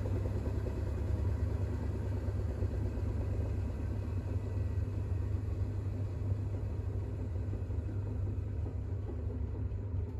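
Bosch WAX32GH1 front-loading washing machine spinning its drum at high speed during a 1200 rpm intermediate spin, with a steady low hum and rumble.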